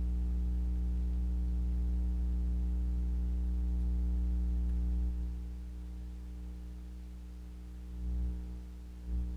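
Steady low electrical hum with even overtones, dropping in level about five seconds in, with a couple of brief low swells near the end.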